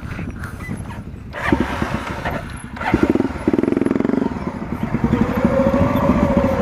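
Off-road dirt bike engine revving hard and accelerating, getting louder about three seconds in and climbing in pitch near the end.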